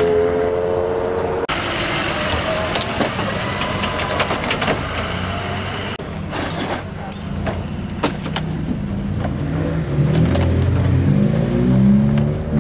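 Car engine revving, rising in pitch, cut off suddenly. Then a noisy stretch with scattered clicks, and another car engine revving up and down near the end.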